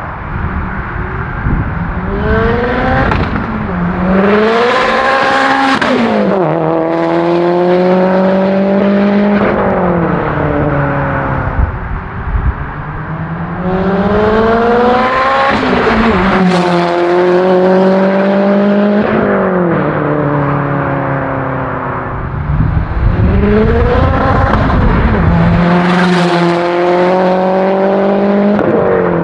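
Big-turbo Gen 1 Mazdaspeed 3's turbocharged 2.3-litre four-cylinder, with external wastegate, making three hard acceleration pulls. Each time the engine pitch climbs, dips at a gear change, climbs again, then drops and falls away as the car eases off.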